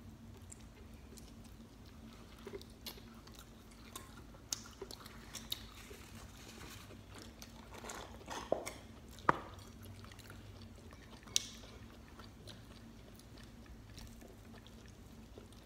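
People chewing and biting into slices of pizza, faint and close, with scattered small clicks and mouth smacks; a few sharper ones stand out past the middle.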